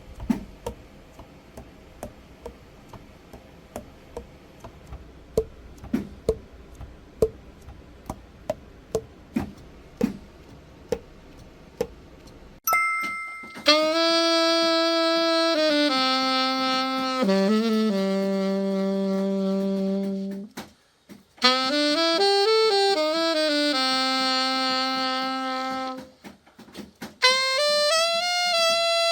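A series of light, irregular clicks, then a Yanagisawa Prima A-50 alto saxophone played in long held notes: a note stepping down to a low held tone, a break, then short phrases moving up and down.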